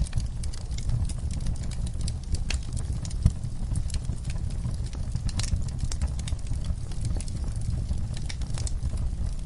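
Wood fire in a fireplace crackling, irregular sharp pops and snaps over a steady low rumble of the flames, with a single louder pop about three seconds in.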